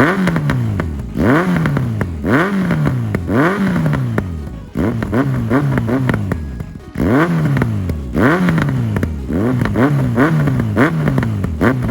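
Yamaha XJR1300's air-cooled inline-four through a Delkevic aftermarket exhaust, revved in repeated sharp throttle blips. Each rev jumps quickly and falls back toward idle, about a dozen times, with a burst of short quick blips midway.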